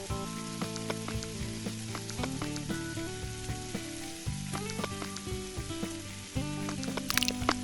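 Breadfruit snack frying in a pan, a steady sizzle with small crackles and a sharper crackle about seven seconds in. Background music plays over it.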